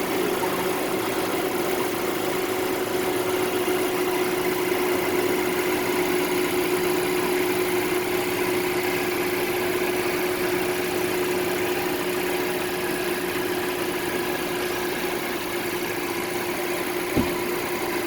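Mercedes-Benz M282 turbocharged four-cylinder petrol engine idling steadily, with a constant tone over the engine sound. A single short click near the end.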